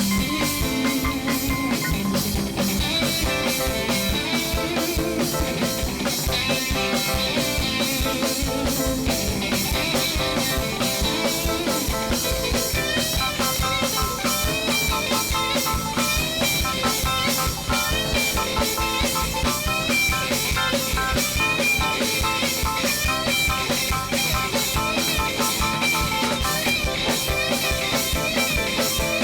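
Live band playing an instrumental on drum kit and guitar, with a steady, driving beat and no vocals.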